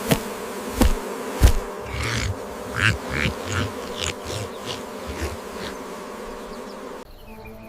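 Insects buzzing steadily, with three low thumps in the first second and a half and scattered short higher-pitched rasps; the buzzing drops away suddenly near the end.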